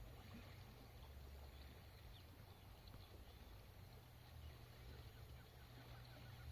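Near silence: faint night-time background with a low steady hum.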